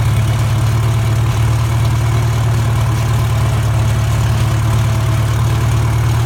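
1944 McCormick-Deering O-4 orchard tractor's four-cylinder engine idling steadily, with an even low firing beat and no change in speed.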